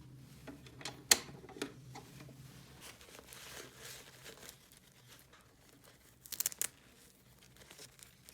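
Small plastic toy pieces and packaging being handled: crinkling and rustling with a few sharp clicks, and a quick rattle of clicks near the end.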